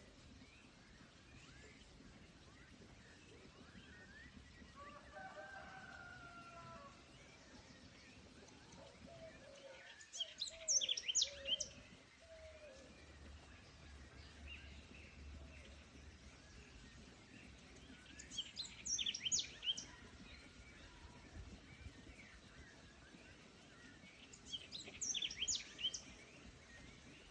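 Birds singing in a forest: a songbird gives three bursts of quick, high, sweeping notes about every seven seconds, which are the loudest sounds, and a fainter, lower warbling call comes early on. Under them runs a soft, steady background hiss.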